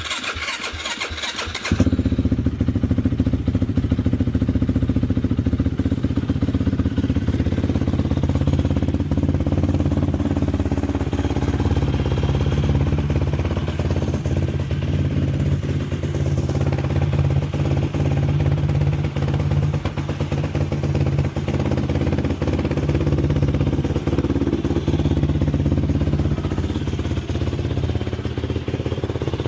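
Carbureted Yamaha YFZ450's single-cylinder four-stroke engine on a cold start: it cranks for under two seconds, catches, then idles steadily.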